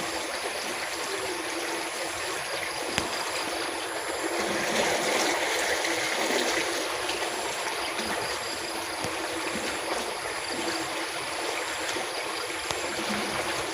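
Steady rush of flowing water from a rain-swollen stream or runoff channel, swelling a little about a third of the way in.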